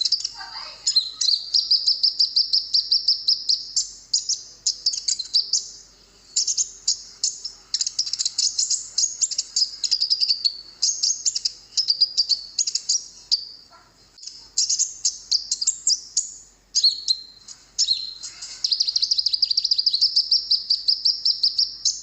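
Olive-backed sunbird (kolibri ninja) singing: phrases of rapid, high-pitched chirps running into fast, buzzy trills, with short pauses between them.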